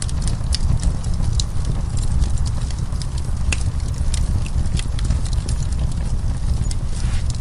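Wood fire burning in a fireplace: a steady low rumble of flame with scattered, irregular sharp crackles and pops from the burning wood.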